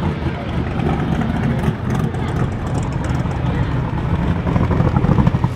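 A car engine running with a steady, deep rumble, with people talking in the background.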